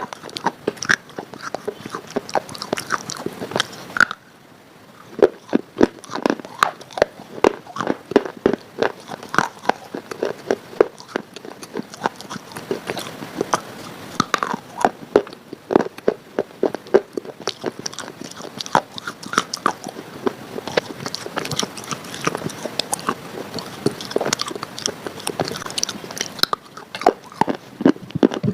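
A person biting and chewing something hard and crunchy close to the microphone: a dense run of sharp cracks and crunches, with a brief lull about four seconds in.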